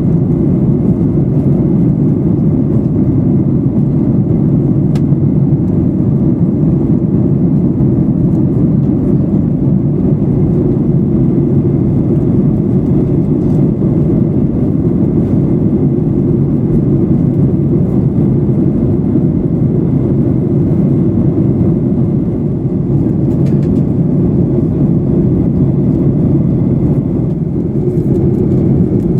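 Steady cabin noise of a Boeing 737-800 in flight: the even, low rush of airflow and its CFM56-7B engines, unchanging throughout.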